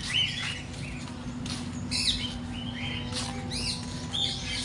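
Caged aviary birds chirping and calling, many short arched chirps overlapping, over a steady low hum.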